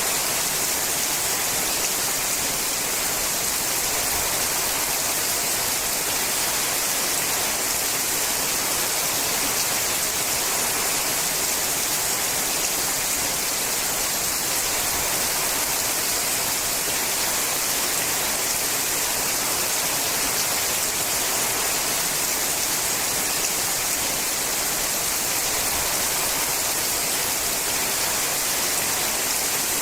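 Steady rain falling on a sheet-metal roof: an even, unbroken hiss, strongest in the high end, with no let-up.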